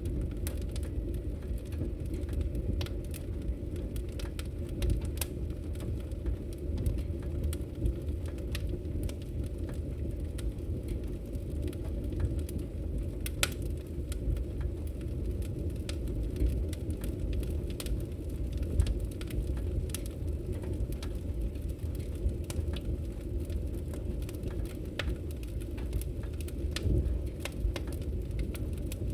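Wood logs burning in a fireplace, crackling with frequent irregular sharp pops over a steady low rush of fire.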